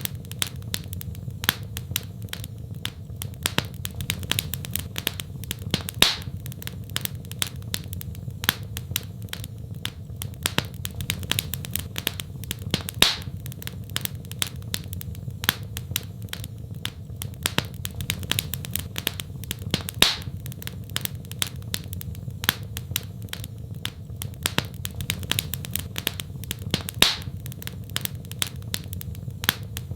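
Wood fire crackling in a fireplace: many irregular sharp pops over a steady low rumble, with a few louder pops about every seven seconds.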